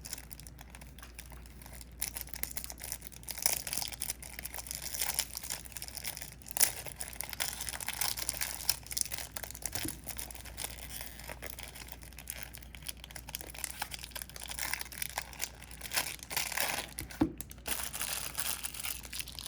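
Packaging of a collectible card game starter deck being torn open and crinkled, with many sharp crackles.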